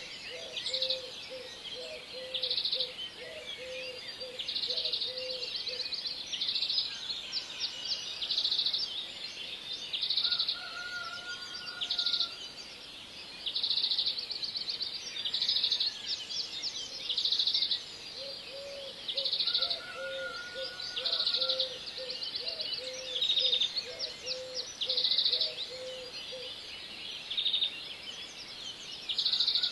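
Birds singing: short, rapidly pulsed high trills repeat every second or two, with a lower run of quick repeated notes near the start and again in the second half.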